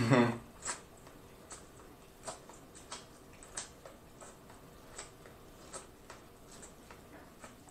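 Corn on the cob being bitten and chewed close to the microphone, giving a string of sharp crisp clicks and crunches from the kernels, roughly one to two a second. A brief vocal sound comes right at the start.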